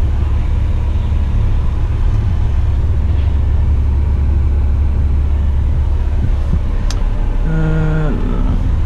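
Dump truck's diesel engine running with a steady low rumble, heard from inside the cab. A sharp click about seven seconds in, and a short steady tone lasting under a second near the end.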